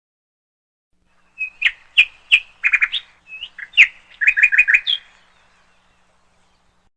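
Bird chirping: a string of short, high chirps with two quick rapid runs of notes, starting about a second and a half in and stopping about five seconds in.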